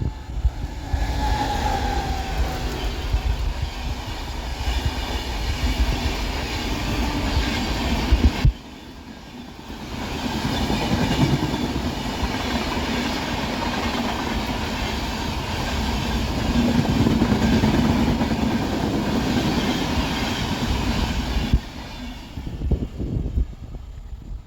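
Express train passing at speed, with the rumble and rattle of its wheels on the track. The sound cuts off abruptly about a third of the way in, a second run of train noise builds up again, and it drops away sharply near the end.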